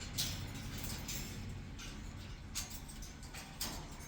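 A few short, scratchy rustles and clicks about a second apart, over a low steady background hum.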